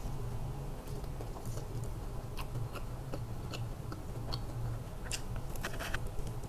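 A person biting into and chewing honey-sauced fried chicken with lightly crispy skin: irregular small crunches and clicks, over a steady low hum.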